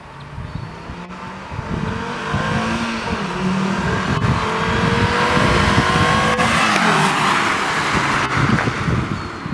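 VW Golf Mk4 V5 (2.3-litre VR5 five-cylinder) with a modified exhaust driving past under acceleration: the engine note climbs in pitch as it approaches, is loudest about six to seven seconds in, then drops in pitch and fades as it goes by.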